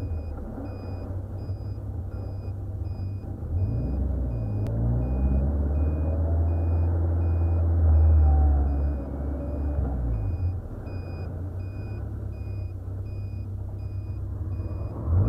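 Seven-style open sports car's engine running on the road with a low rumble, heard from the open car. Its pitch climbs as it revs up from about four seconds in and is loudest near eight seconds, then it eases off and drops to a lower steady drone as the car slows.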